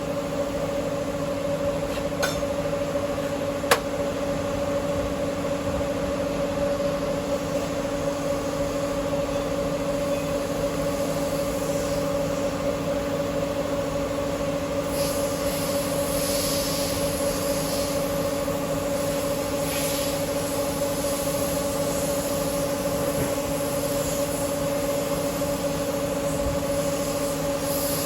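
Steady drone of a car in motion, with a couple of brief clicks a few seconds in.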